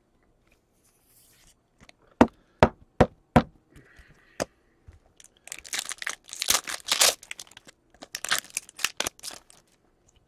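Four sharp taps in quick succession and one more a second later, then a hockey card pack's foil wrapper being torn open and crinkled in two bursts.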